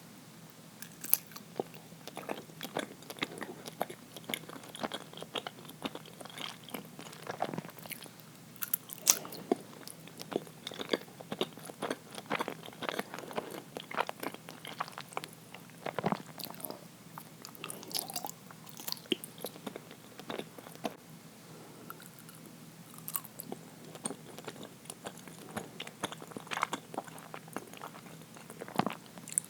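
A person biting and chewing uiro, a soft, sticky steamed rice-flour sweet, close to the microphone: an irregular run of short, moist mouth clicks and smacks that starts about a second in.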